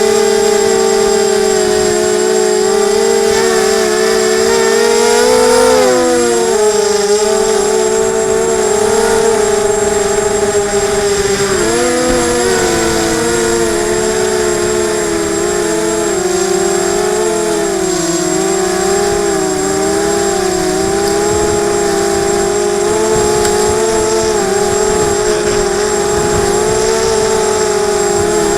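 Emax 250 quadcopter's brushless motors and propellers whining steadily in flight. The pitch dips sharply about six seconds in and again about twelve seconds in, then wavers up and down.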